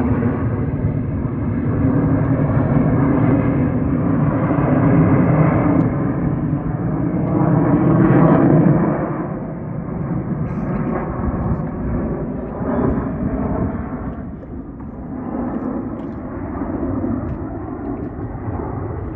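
Aircraft flying past, its engine roar building to a peak about eight seconds in and then fading.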